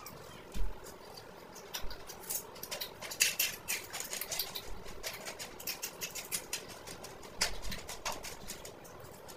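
Close-up chewing of whole fried fish: irregular crunching and crackling with wet, smacking mouth sounds, busiest in the middle and easing toward the end.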